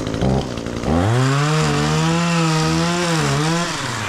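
Gas chainsaw blipped briefly, then revved up to full throttle about a second in and held there, the pitch wavering and dipping under load as it cuts through the felled tree's wood. It drops back toward idle near the end.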